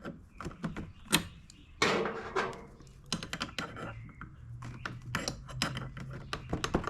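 Scattered clicks, taps and light rattles of hand tools and small parts being handled, the sharpest knock about a second in. A low steady hum comes in about halfway through.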